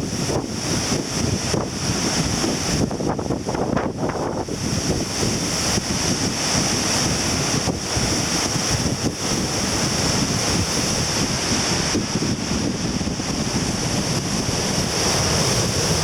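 Heavy surf breaking and washing up the shore in a strong wind, with wind buffeting the microphone in a steady rumbling roar.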